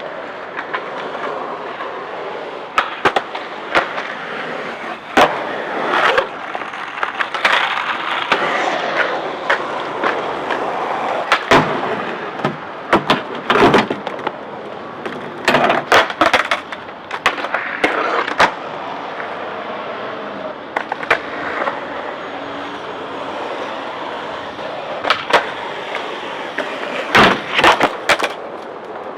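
Skateboards rolling on hard ground, with sharp clacks and knocks scattered throughout from boards and trucks hitting and grinding, and a quick cluster of them near the end.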